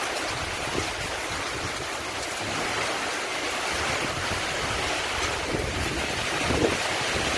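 Cyclone-force wind with rain: a steady rushing noise, with gusts rumbling on the microphone.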